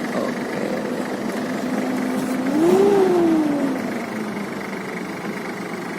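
Toyota Land Cruiser engine running steadily, then revving up briefly about two and a half seconds in and dropping back down over the next second.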